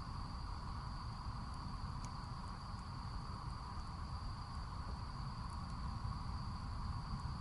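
Steady high-pitched chorus of crickets and other insects over a low rumble, with a few faint crackles from the burning wood of the campfire.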